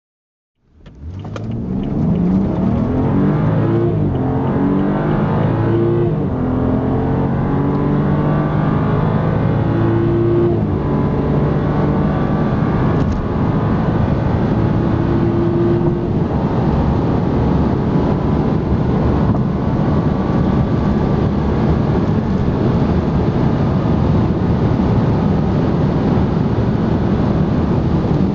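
BMW 335i F30's turbocharged 3.0-litre straight-six accelerating hard, its note rising and dropping back at each upshift several times over the first fifteen seconds or so. After that the engine note fades into a steady rush of wind and tyre noise at high speed.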